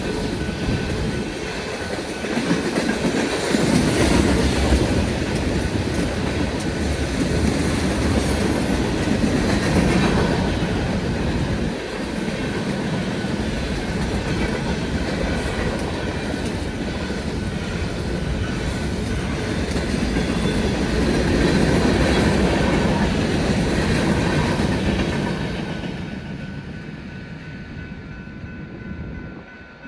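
Union Pacific local freight train rolling through a grade crossing, wheels clacking over the rails in a steady rumble. The sound falls away over the last few seconds.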